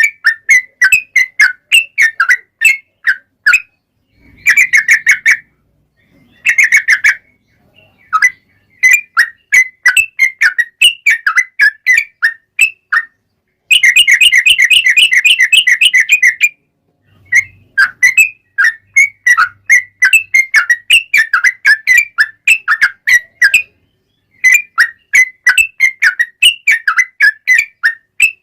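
Yellow-vented bulbul (trucuk) song: rapid bubbling, whistled chirps in bursts with short pauses between them. About halfway through comes one long, fast run of notes, the long trill (ropel panjang) that keepers use as a lure to set other bulbuls singing.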